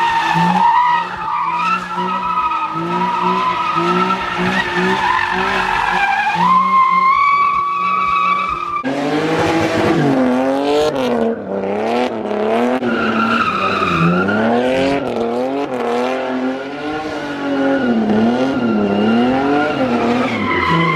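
Car doing a burnout: tyres squealing steadily, the squeal jumping up in pitch about six seconds in. From about nine seconds the engine revs up and down over and over while the tyres keep squealing.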